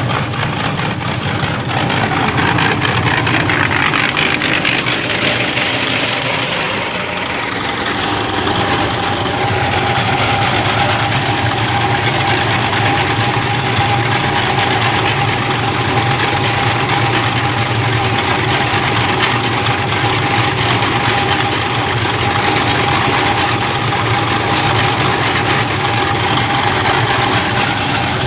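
An engine running steadily, joined about eight seconds in by a steady whine.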